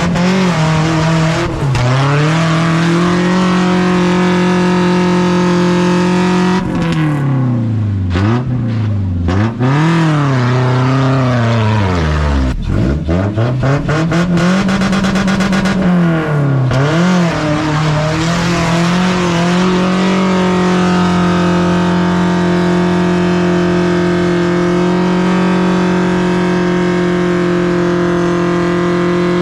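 Off-road vehicle's engine revving up and down over and over, the pitch dipping low and climbing again several times, then held steady at high revs for about the last ten seconds.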